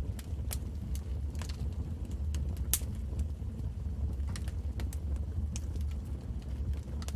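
Wood fire burning in a fireplace: a steady low rumble of the flames with irregular sharp crackles and pops, one louder pop about two and a half seconds in.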